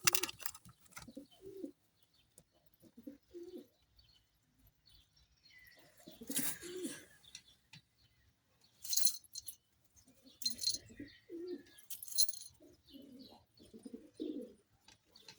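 Domestic pigeons cooing in a loft, short low coos repeated on and off, with a few brief rustling noises in between.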